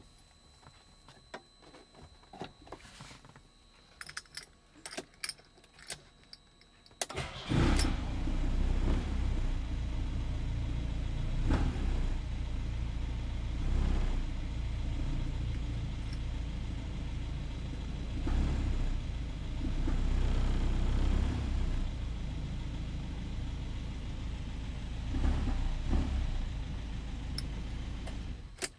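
An older Peugeot's engine fires up about seven seconds in, after a few faint clicks, and runs with several swells in engine speed as the accelerator is worked. It is switched off abruptly just before the end.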